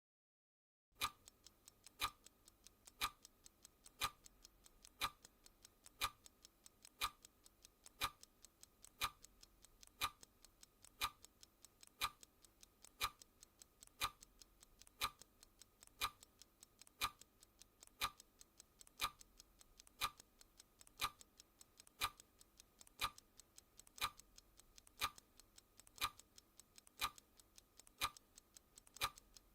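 Clock second-hand ticking sound effect: a sharp tick once a second, with fainter ticks in between, starting about a second in.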